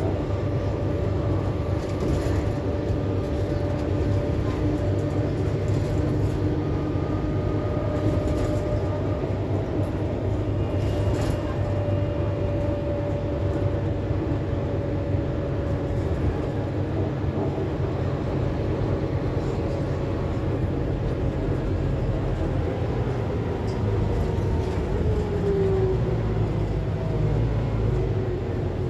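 Interior sound of a Scania K280UB city bus under way: a steady low engine and road rumble with a thin drivetrain whine. The whine shifts and dips in pitch a little past the three-quarter mark, while the rumble grows slightly louder.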